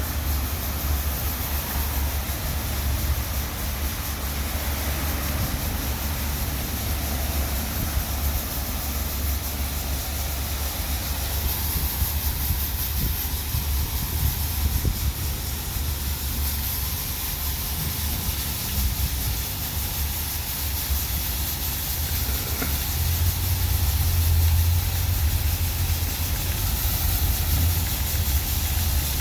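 WashTec SoftCare Pro Classic automatic car wash running: a steady hiss of spraying water over a constant low hum, the hum swelling a little about two-thirds of the way through.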